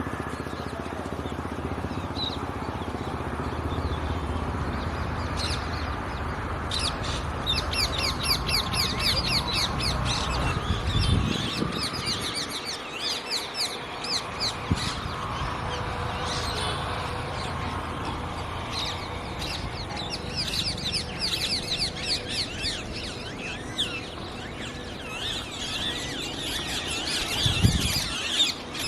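Parrots chirping in rapid, repeated series of high chirps, starting about seven seconds in, over a low rumble. Two dull thumps, one about a third of the way in and one near the end.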